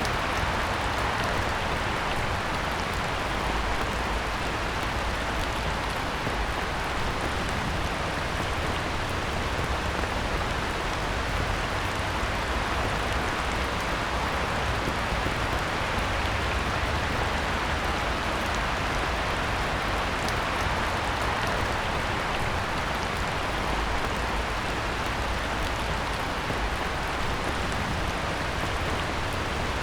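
Heavy rain falling steadily on a pond surface: a dense, even hiss of countless drops with no breaks or single events.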